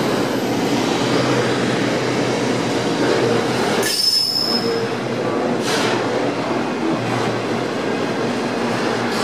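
Intermodal container freight wagons rolling past close by, a steady rumble of wheels on rail, with a brief high-pitched wheel squeal about four seconds in and a shorter screech near six seconds.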